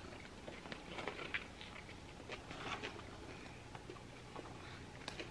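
Faint biting and chewing of a fried chicken sandwich: scattered small crunches and mouth clicks.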